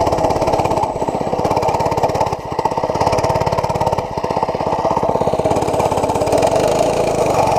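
80cc mini bike's small single-cylinder engine running steadily under throttle, its firing pulses even, with brief dips in loudness a few times as the throttle eases.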